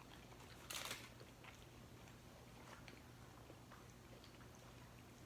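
Faint chewing and mouth sounds of people eating, with scattered small clicks and one brief louder noise about a second in.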